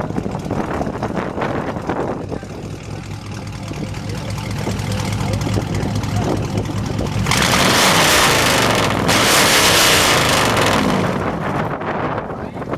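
Car engine idling with a steady low exhaust note. About seven seconds in, a loud rushing noise comes in, breaks off briefly, and lasts about four seconds.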